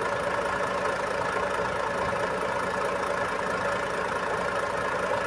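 Truck engine idling steadily with an even, unchanging hum.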